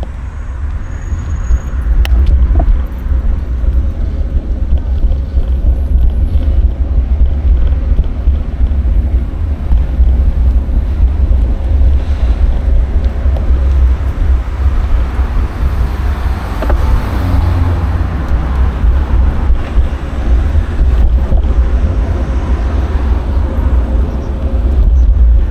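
Wind rumbling and buffeting on an action camera's microphone while riding a bicycle, over street traffic; a vehicle swells past about two-thirds of the way in.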